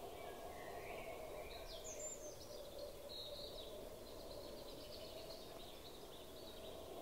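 Faint birdsong: small birds chirping and warbling over a steady background of outdoor noise.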